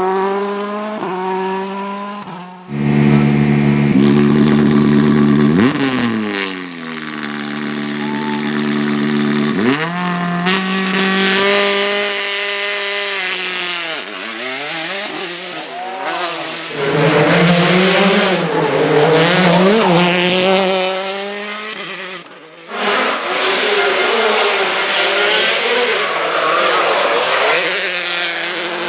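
Rally car engines driven hard, revving up and falling through gear changes in several short clips, with the sound breaking off abruptly about three seconds in and again about 23 seconds in.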